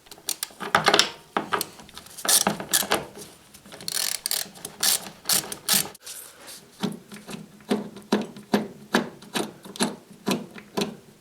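Fridge door hinge bolts being undone with a hand tool: a run of sharp clicks and scrapes, settling into an even rhythm of about three clicks a second in the second half.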